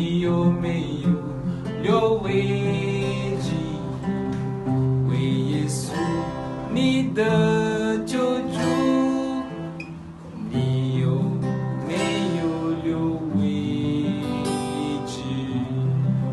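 Music: an acoustic guitar strumming and picking a slow hymn accompaniment.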